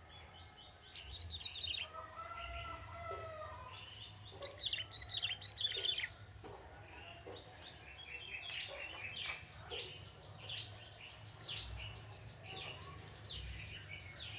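Young male ciblek tebu, a prinia, singing in repeated bursts of rapid high chirps. A lower, drawn-out note sounds about two seconds in.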